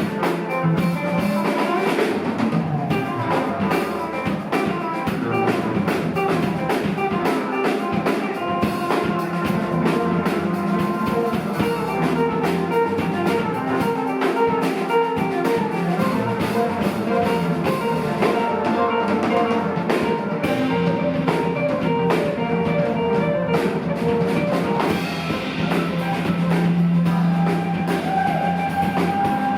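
Live rock band playing an instrumental passage: a drum kit keeps time under electric guitar lines.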